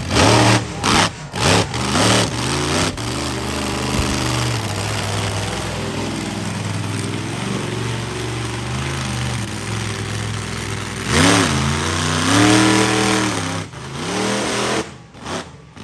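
Monster truck engine running loudly, with revs rising and falling near the start, a steadier stretch, then a hard rev-up about eleven seconds in that drops back a couple of seconds later.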